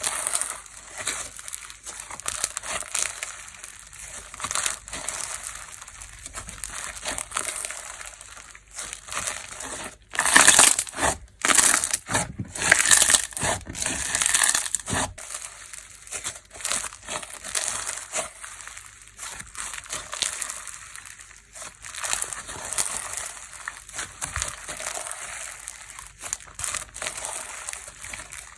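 Textured fu-gashi slime being squeezed and kneaded by hand, giving a steady run of crackling, popping and squishing. It is louder and busier for a few seconds around the middle.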